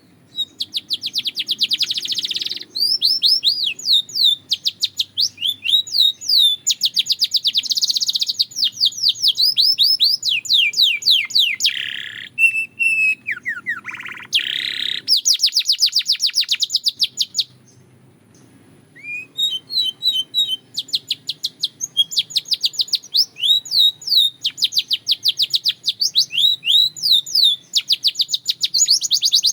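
Canary singing: phrase after phrase of fast, high-pitched trills made of rapidly repeated notes. Some slower notes sweep downward about halfway through, and there is a short pause before the trills resume.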